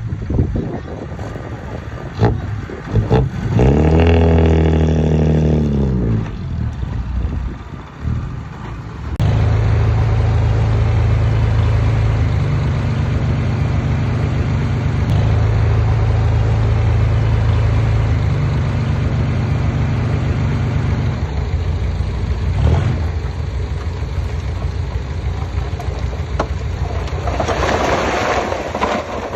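Diesel engine of heavy earthmoving machinery revving up and falling back a couple of times, then running steadily with small changes in pitch. A rough, rushing noise swells near the end.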